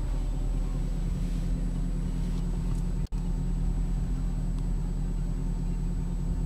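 The Mercedes C63 AMG's 6.2-litre V8 idling steadily, heard from inside the cabin. The sound cuts out for an instant about three seconds in.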